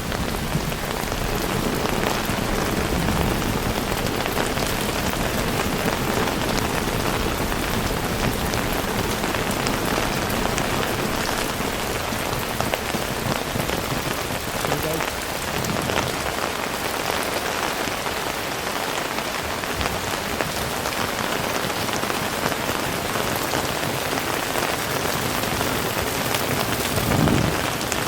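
Heavy rain falling steadily: a dense, even hiss with scattered sharper drop hits. A low rumble underneath dies away about halfway through.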